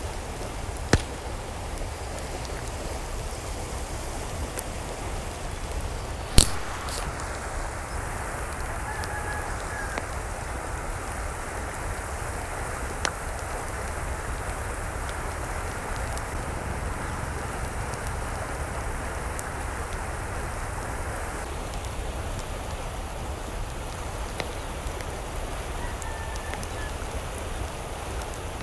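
Steady rain falling, an even hiss, with a few sharp taps of drops on a surface, the loudest about six seconds in. A couple of faint short calls sound in the distance.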